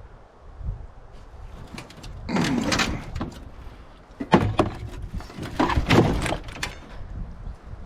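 Sheet metal of a microwave being taken apart: a few rough metal scrapes with sharp knocks and clanks between them.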